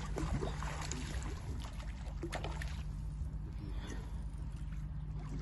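Water sounds: a steady low rumble with light splashing and scattered small clicks.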